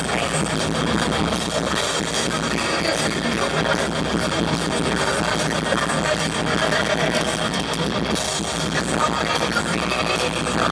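Live heavy metal band playing loud and steady, with distorted electric guitars and drums, recorded from the crowd on a camera microphone that makes it sound harsh and smeared.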